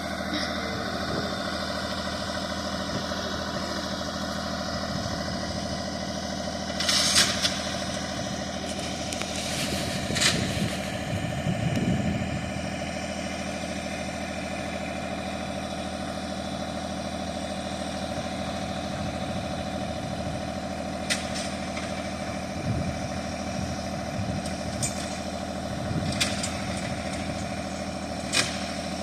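Tractor engine idling steadily, with a few short, sharp noises rising above it here and there.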